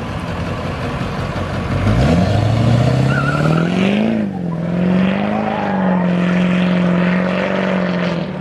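A car engine rumbling, then accelerating hard about two seconds in. The engine note climbs steeply, then holds high and steady as the car pulls away.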